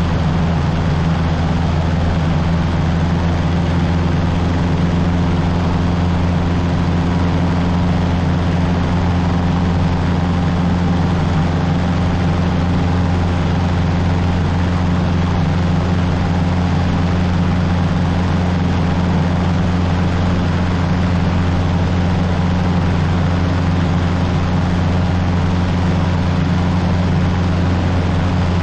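Cessna 150's four-cylinder Continental O-200 engine and propeller, a steady unchanging drone heard from inside the cabin in flight.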